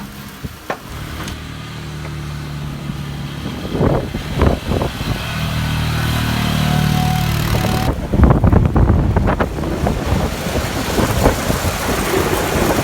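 A motor vehicle's engine running, growing louder over several seconds, with a patch of rough, clattering noise from about eight seconds in.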